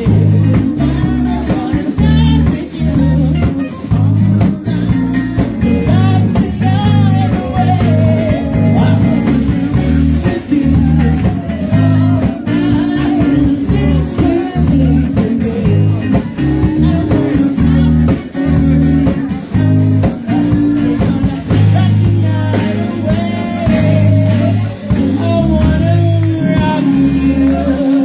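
A live band playing a blues-rock jam, with guitar over bass and drums.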